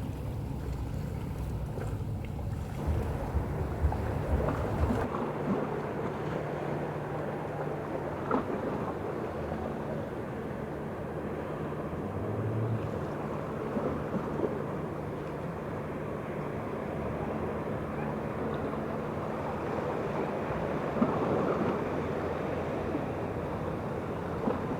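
Cruise ship Carnival Magic leaving port: a steady deep rumble from the ship, with the wash of water and some wind on the microphone. The deep rumble drops away about five seconds in, leaving a steady lighter wash.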